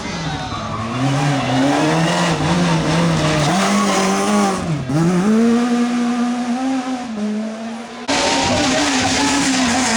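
Rally car engine running at high revs, its pitch wavering with the throttle, then a sharp drop and climb back up about halfway through as the driver lifts off and accelerates again. The sound changes abruptly about eight seconds in.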